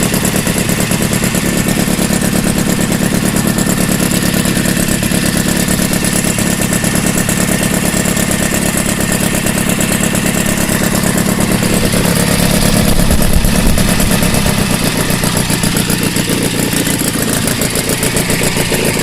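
Valach 120cc four-stroke model aircraft engine running steadily on the ground, throttled up briefly about two-thirds of the way through, then settling back.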